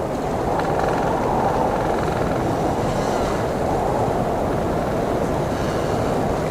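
Blizzard wind blowing steadily in a dense, low rush, with a faint whistling edge for a second or two near the start.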